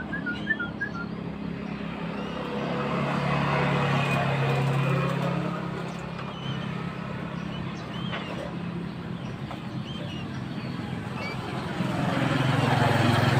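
A low engine hum from passing traffic swells and fades, once around the third to fifth second and again near the end. Small bird chirps sound over it: a quick run of chirps at the start and a few short calls a few seconds later.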